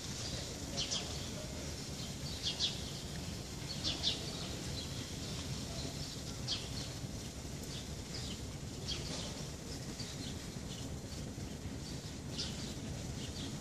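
Small birds chirping: short, high, downward-sweeping chirps every second or two over a steady low background rumble.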